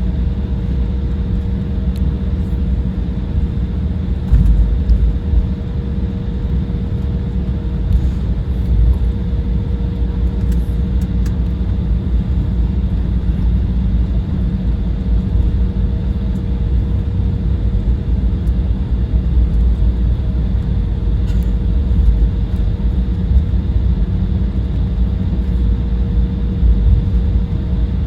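Cabin noise inside an Embraer 175 jet airliner: the GE CF34 turbofan engines and airframe give a steady low rumble with a steady hum on top.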